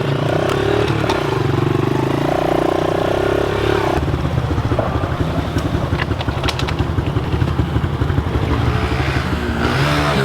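Pit bike engine running, its small single-cylinder four-stroke note revving up and down, climbing in pitch near the end.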